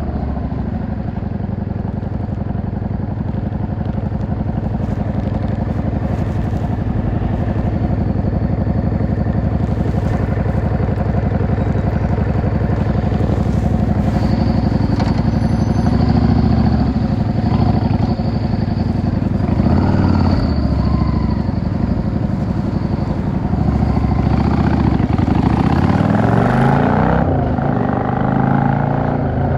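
Yamaha XVS 650 V-Star's air-cooled V-twin engine running as the motorcycle rides through city streets. The engine note holds steady at first, then rises and falls repeatedly in the second half as the bike accelerates and slows, with a clear rev up and down near the end.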